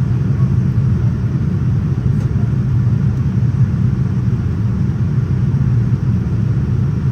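Cabin noise inside a Boeing 787-9 airliner: a steady low rumble of engines and airflow.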